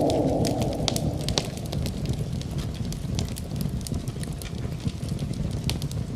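Wood fire crackling in a fireplace: irregular sharp pops and snaps over a steady low rumble. A louder hiss fades away over the first second or so.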